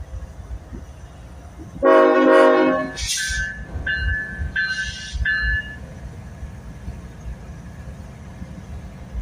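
Diesel freight locomotive's air horn sounding one loud blast about two seconds in, followed by several shorter, thinner horn notes with gaps, over the low rumble of the approaching train.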